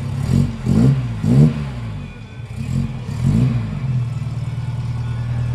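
Car engine revved in five quick blips, the pitch rising and falling each time, then settling back to a steady idle about four seconds in.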